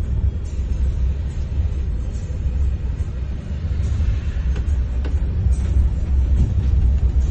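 Scania bus on the move, a steady low engine and road rumble heard from inside the bus.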